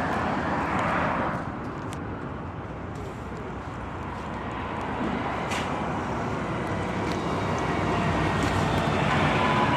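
Street traffic: the steady rush of vehicles passing, swelling near the start and again near the end.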